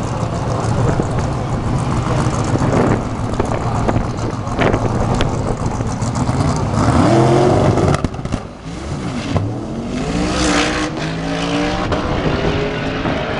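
Twin-turbocharged car engine running loud, its pitch climbing as it accelerates past the midpoint, dropping off briefly, then climbing again.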